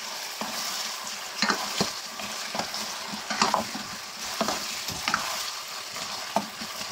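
Chicken pieces sizzling in hot oil in a nonstick pot, being stirred with a spatula that scrapes and knocks against the pot about once a second over a steady sizzle.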